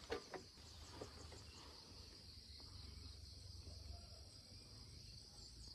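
Faint, steady high-pitched insect chorus of cicadas or crickets, with a few soft clicks in the first second.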